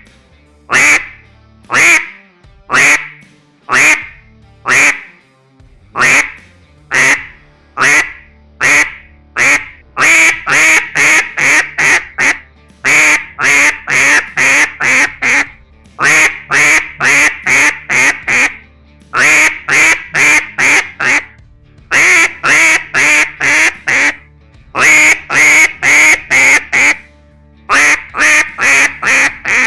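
Duck call blown in quacks: single quacks about one a second for the first ten seconds or so, then repeated cadences of quick quacks in runs of about six to eight, each run separated by a short pause.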